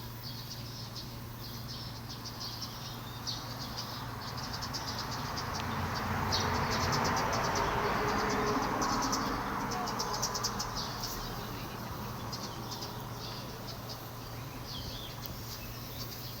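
Small birds chirping in repeated quick, high-pitched bursts over a steady rushing background that swells louder through the middle and fades again.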